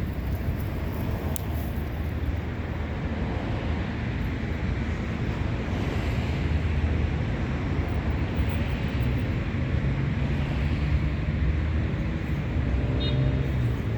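Steady outdoor background rumble and hiss, strongest in the low end, with a brief high tone near the end.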